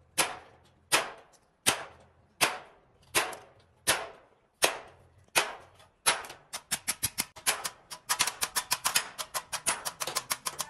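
Sharp strikes repeated at an even pace, about one every three quarters of a second, each ringing briefly. About six seconds in they quicken into a rapid, uneven run of several strikes a second.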